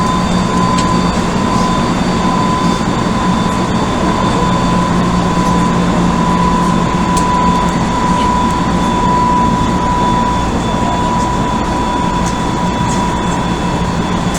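Running noise heard aboard an Odakyu 1000 series electric train with a Mitsubishi GTO-VVVF inverter: a steady rumble of wheels on the rails. Over it sits a steady electric whine held at one pitch, with a few faint clicks.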